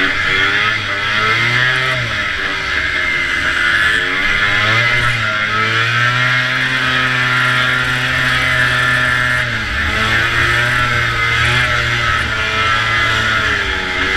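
Vintage two-stroke snowmobile engine racing at high revs, its pitch dipping and climbing again about four times as the throttle is eased and reapplied for the turns. A steady rushing hiss runs behind the engine.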